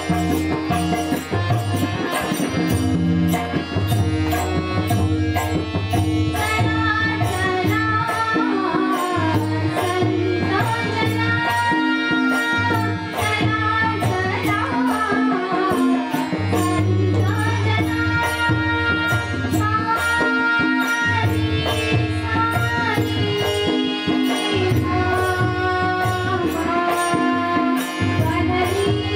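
Devotional bhajan singing with tabla accompaniment over a steady sustained drone, with evenly repeating percussion strikes throughout. A wavering melody line grows strong from about seven seconds in.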